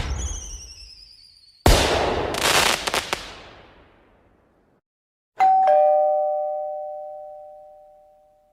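A loud bang with a falling whistle, then a second bang with crackling that dies away, like a firework. About five seconds in, a two-note doorbell chime sounds, ding-dong, high note then low, and rings out slowly.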